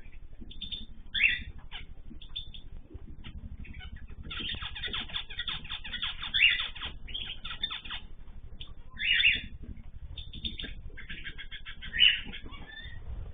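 Ornamental cage birds chirping and calling in quick runs of short high notes, with louder calls about a second in, about halfway, and twice near the end, over a low steady hum.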